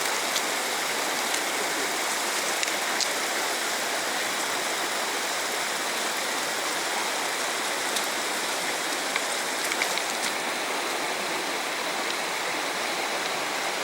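Steady, unbroken rush of fast-flowing water from a mountain stream.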